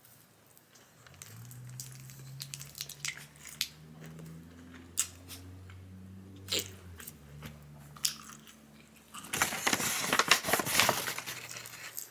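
A person eating close to the microphone: biting and chewing a crunchy fried chicken egg roll, with scattered sharp crunches. Near the end comes a louder, dense stretch of crackling crunch noise lasting about three seconds.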